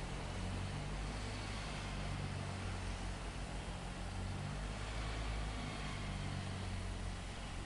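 A machine engine running steadily at a low, even pitch, with a faint hiss over it.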